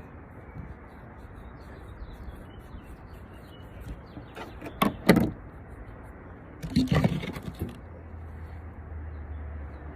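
Rustling and knocking from close handling, in two bursts about five and seven seconds in, over a steady outdoor hiss with faint bird chirps.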